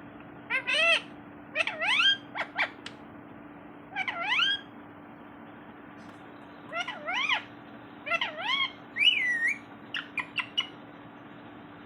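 Parrot calling in short groups of rising, pitched calls, with a longer wavering call about nine seconds in and a few quick short calls near the end.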